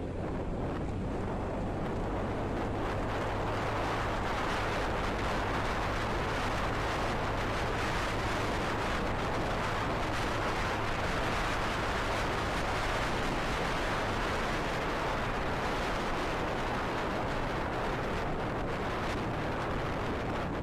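Steady wind rushing over the microphone while riding a motorcycle, with a low, even engine hum underneath.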